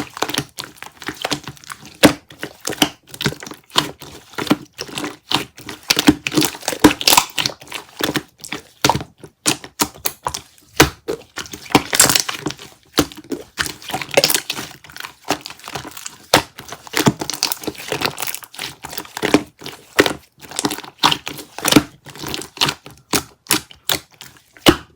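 Crinkly material, such as plastic or paper wrapping, handled close up: dense, irregular crinkling and crackling with occasional small knocks.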